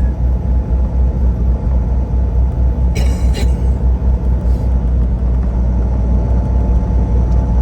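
Steady deep rumble of a semi truck's diesel engine and road noise heard inside the cab while driving. Two short hissy bursts come about three seconds in.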